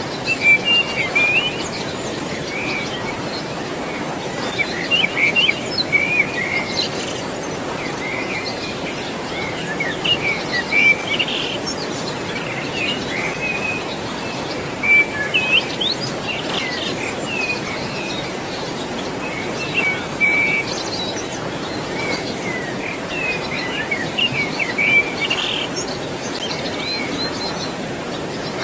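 Many birds chirping and whistling in short, scattered calls over a steady rush of flowing water.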